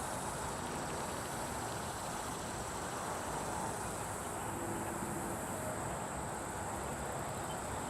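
Insects, likely crickets, chirring in a steady, unbroken high-pitched chorus, over a constant low rumble of wind or distant traffic.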